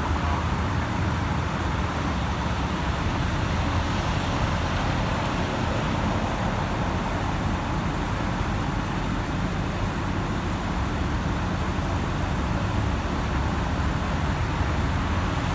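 Heavy construction equipment running steadily, a diesel rumble with a constant low hum and no distinct impacts.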